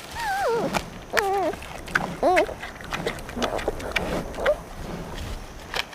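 Panda calling: three short, wavering, bleating squeals in the first two and a half seconds, followed by scattered clicks and rustling.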